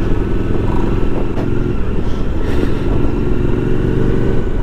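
Motorcycle engine running under way at a steady pitch.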